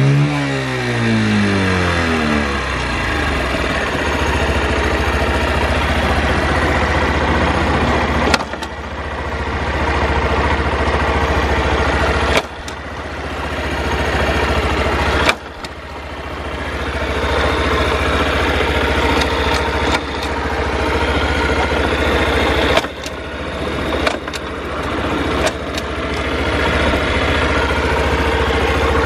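Honda Super Cub 50 FI's small single-cylinder four-stroke engine coming down in revs over the first couple of seconds, then running steadily at idle. A few sharp clicks each come with a sudden drop in level that slowly builds back. The seller describes the engine as in good order with no abnormal noises.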